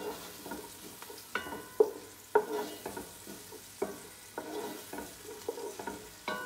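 Chopped onion and garlic sizzling in oil in a pot while a spoon stirs them, knocking against the pot about six times with short ringing clanks.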